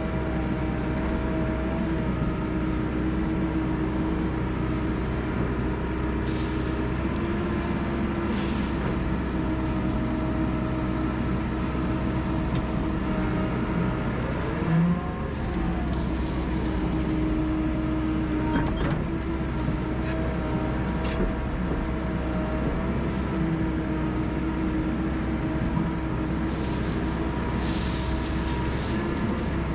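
Heavy-equipment diesel engine running steadily under work, with one brief rev up and back down about halfway through and a few short hisses.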